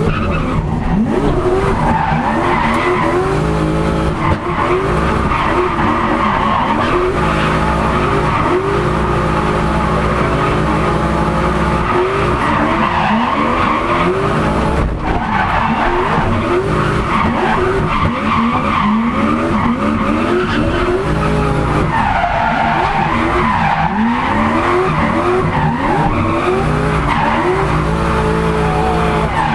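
Turbocharged Lexus 1UZ-FE V8 in a Nissan 200SX drift car, heard from inside the cabin, revving up and down over and over through a drift run, with tyres squealing and skidding.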